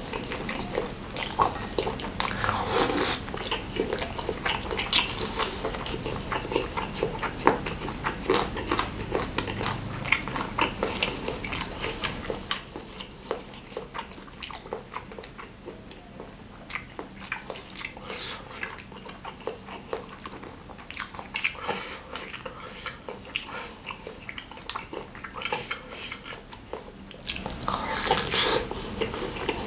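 Close-miked chewing and biting of mouthfuls of spicy meatball and noodles, with many quick mouth clicks. It goes quieter about halfway through and louder again near the end.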